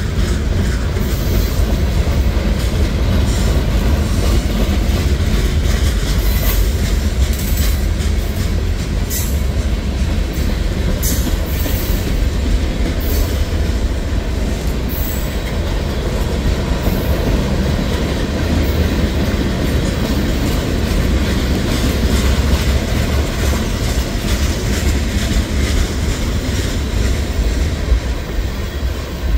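Boxcars and tank cars of a freight train rolling past close by: a steady heavy rumble of steel wheels on the rails, with short high-pitched wheel squeals scattered through the first half.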